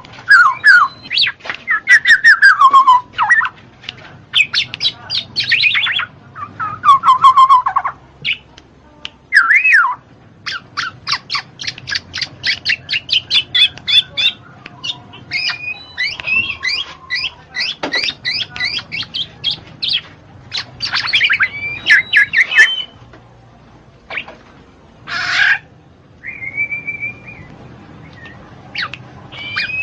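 Black-naped oriole (kepodang) singing and calling: sliding, falling phrases and quick runs of repeated notes, with a harsh call about 25 seconds in followed by one held whistle.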